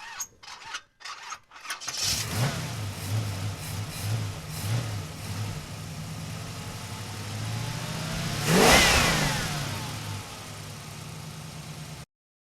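2014 Chrysler 300's 3.6-litre V6 with its muffler and resonator deleted (straight pipes): the engine catches about two seconds in and idles with a deep, loud exhaust note. It is blipped once near the nine-second mark, with a rise and fall in pitch, and cuts off suddenly near the end.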